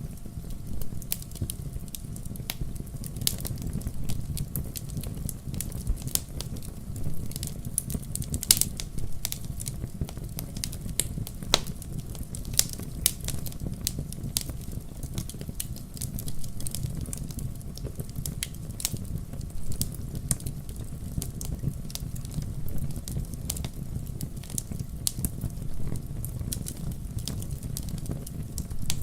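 Fire crackling in a fireplace: frequent irregular sharp pops and snaps over a steady low rumble of the flames.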